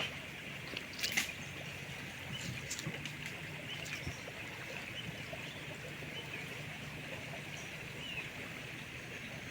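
River outdoor ambience: steady running water with a constant high hiss and a low hum underneath, and a few sharp clicks about a second in.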